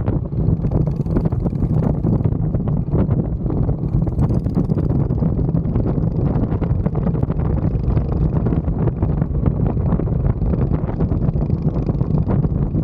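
Mini bike engine running steadily while riding, mixed with heavy wind buffeting on the camera's microphone.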